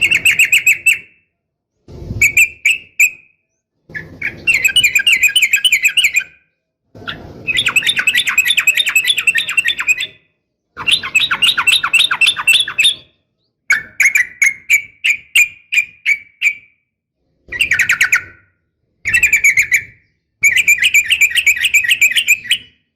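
Yellow-vented bulbul (trucukan) singing loud, rapid trills: about ten bursts of quickly repeated bubbling notes, each lasting one to three seconds, with short silent gaps between. The song is presented as a female calling to a male.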